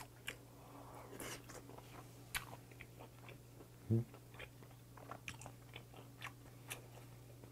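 Close-miked chewing of soft raw pen shell scallop sashimi: a string of wet mouth clicks and smacks, with a short hummed 'mm' about four seconds in. A steady low electrical hum runs underneath.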